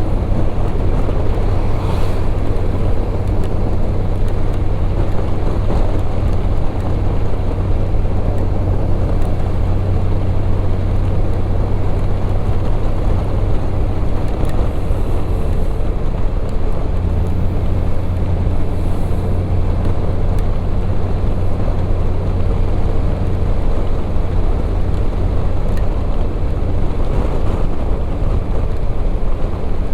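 Motorcycle engine running steadily at cruising speed under a low, even drone, with wind and rain noise rushing past.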